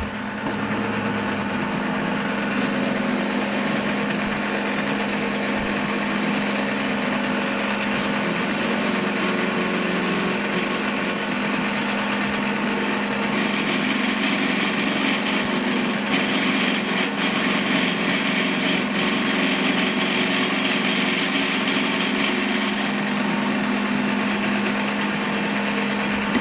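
A power tool running steadily, a constant low hum under a rough, hissing working noise.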